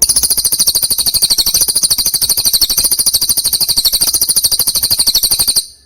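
A songbird's fast, even, high-pitched trill, a rapid run of identical notes held for about five and a half seconds and then cut off abruptly.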